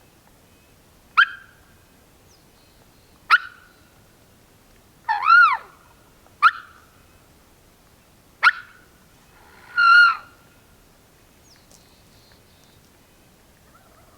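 Turkey calling: six loud calls a second or two apart. Four are short and sharp, and two, the third and the last, are longer and arched in pitch.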